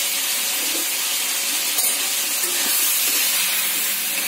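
Chicken pieces and onions frying in hot oil in a wok, a steady sizzle.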